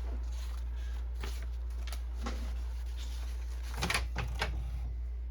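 Scattered light clicks and knocks at a Canon Pixma inkjet printer, the loudest a short cluster about four seconds in, over a steady low hum.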